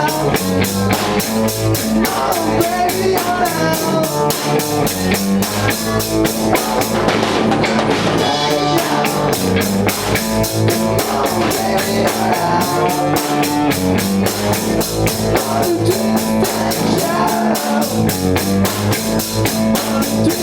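Live rock band playing an instrumental passage: a drum kit keeps a fast, steady beat under electric guitar. The cymbals drop out briefly about seven seconds in.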